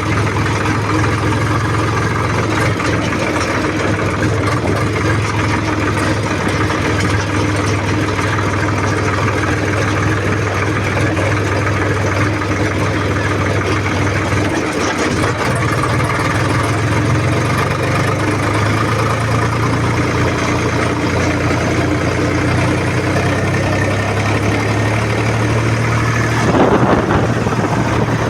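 Swaraj tractor's diesel engine running steadily, with a slight change in its note about halfway through and a brief louder noise near the end.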